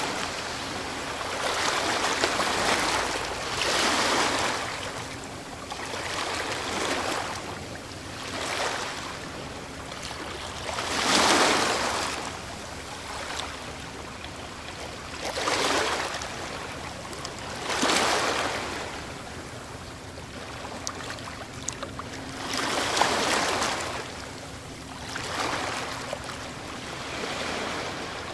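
Ocean waves breaking and washing up a shore, each wave rising to a rush of surf and then falling back, one every two to five seconds, in uneven strength.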